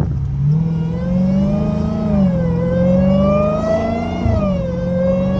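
Supercharged 6.2-litre Hemi V8 of a straight-piped Dodge Challenger Hellcat pulling hard through the gears: the exhaust note climbs, drops at a gear change about two seconds in, climbs again and drops at another shift near the end. A supercharger whine rises and falls along with it.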